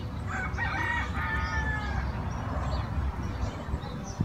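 A rooster crowing once, a single drawn-out call starting about half a second in and lasting about a second and a half.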